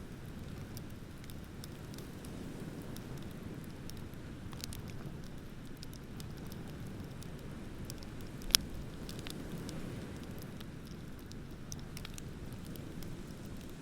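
Wood bonfire crackling, with scattered small pops and one loud sharp pop about eight and a half seconds in, over a steady low rush of ocean surf.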